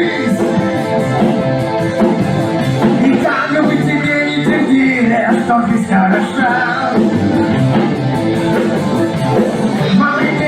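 A rock band playing a song, with a singing voice over guitar, at a steady level throughout.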